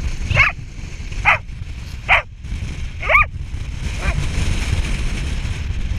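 A dog barking in short, high yips, five in all about a second apart, the last one faint, over wind rumbling on the microphone.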